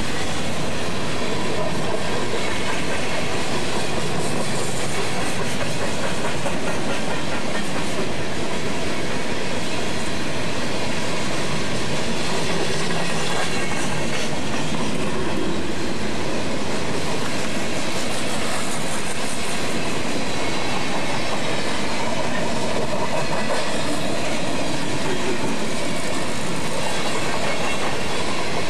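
Freight train of open-top coal cars rolling past close by: steady noise of steel wheels running on the rails.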